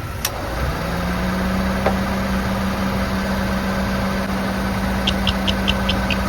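Daihatsu Hijet kei truck idling: a click, then a steady hum that comes in and rises to a held pitch about half a second in. Near the end, fast, even ticking starts, about five a second.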